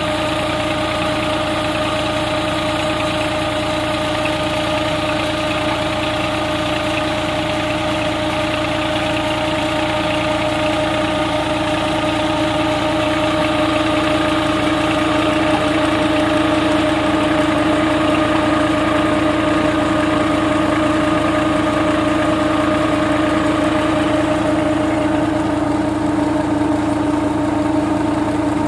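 Tractor engine running steadily while driving a tubewell pump through a shaft, with a steady hum. It gets a little louder about halfway through.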